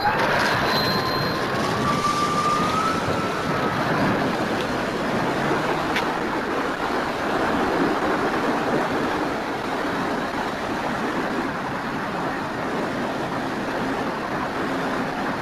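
Electric motor and propeller of an FMS Cessna 182 RC model airplane in flight, heard from a camera on board: a whine rising in pitch over the first three seconds, then fading under a steady rush of wind over the airframe.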